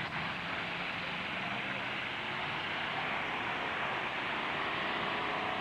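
Steady noisy din of demolition derby truck engines running, with faint rising and falling engine pitch near the end.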